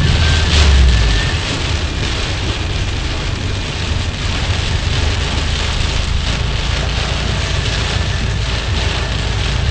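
Heavy rain drumming on a moving car, with tyres hissing through water on the road and the engine rumbling low underneath. The engine's rumble is strongest in the first second and eases after it.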